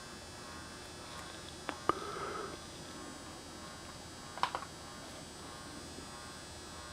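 Steady electrical hum with a few sharp clicks or knocks: two about two seconds in, followed by a brief rustle, and a short cluster of clicks about four and a half seconds in.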